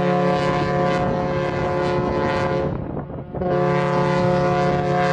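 A steady, loud mechanical drone of several held tones over a rushing noise. It fades sharply for a moment about three seconds in, then comes back.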